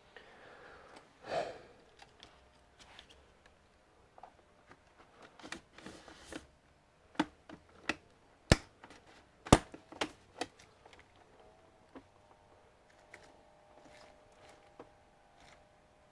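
Scattered sharp clicks and light taps of parts and tools being handled during computer disassembly, with two loud clicks about a second apart halfway through.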